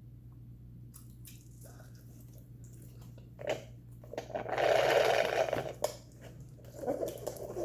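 Close-miked eating sounds: soft chewing and mouth clicks, with a louder rough, noisy stretch of about a second and a half a little past the middle, over a steady low hum.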